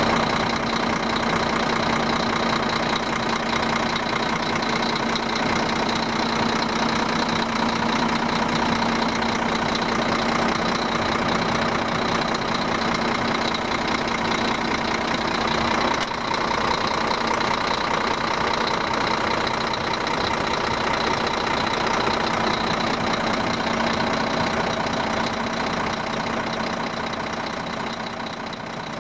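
Scania R 440 truck's six-cylinder diesel engine idling steadily, with a constant low hum. It cuts in abruptly and eases slightly near the end.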